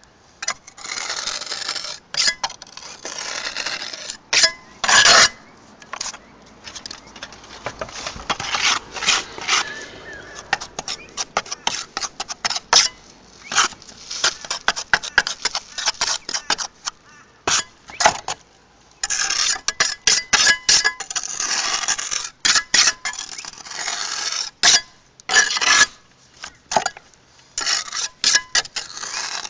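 Metal pointing trowel scraping and clinking against concrete roof tiles while flexible pointing compound is worked along the ridge caps, in irregular runs of sharp taps and scrapes.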